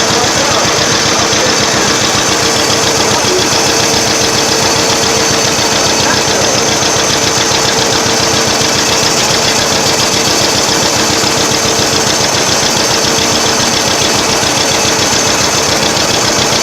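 Antique tractor engine running steadily close by, with an even, rapid firing rhythm and a thin steady tone above it.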